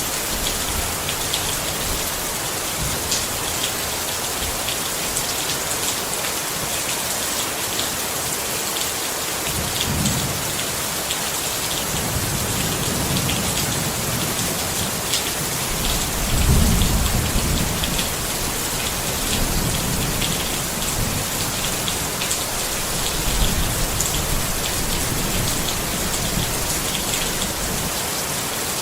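Steady rain pattering on a tent, a dense even hiss of drops. Low rumbles of distant thunder swell in now and then, the loudest about halfway through.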